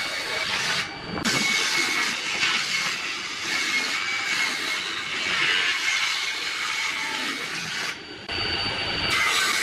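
Electric woodworking power tool running against wood: a steady harsh hiss with a high whine, dropping out briefly about a second in and again near the end.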